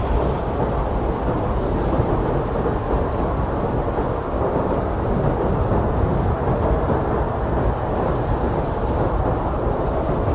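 Strong blizzard wind: a steady, deep rushing noise with no single gust standing out.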